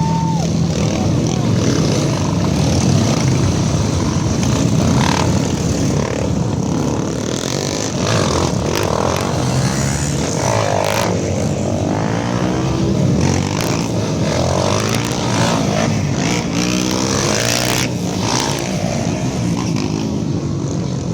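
Many off-road trail motorcycles running together, their engines revving up and down in overlapping pitches as they ride off from the start.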